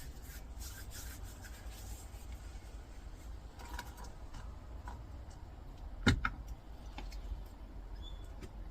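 Faint rubbing and light clicks of small pieces of scrap metal being handled on a workbench, with one sharper knock about six seconds in, over a low steady hum.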